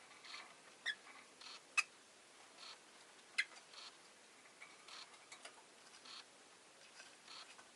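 Rosy-faced lovebird (Agapornis roseicollis) making a few short, sharp chirps and clicks, the loudest about two and three and a half seconds in. A soft, even ticking comes about once a second beneath them.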